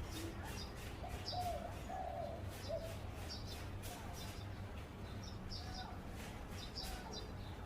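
Zebra dove cooing: a short run of low, wavering notes in the first three seconds and a fainter one or two later. Higher, short chirps from small birds repeat throughout.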